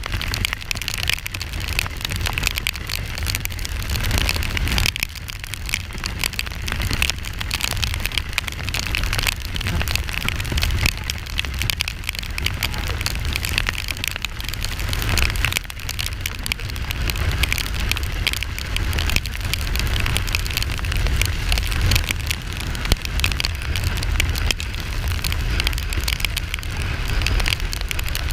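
Rain pattering and crackling on the riding microphone during a motorcycle ride, over a steady low rumble.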